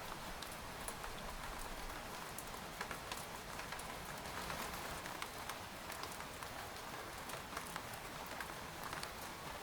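Steady rain with many separate drops ticking on a tent's fabric, a soft continuous patter under scattered sharper drop hits.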